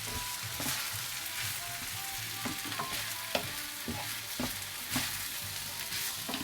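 Chicken fried rice sizzling in a hot pan while a spoon stirs and mixes it, with irregular scrapes and knocks of the spoon against the pan over a steady sizzling hiss.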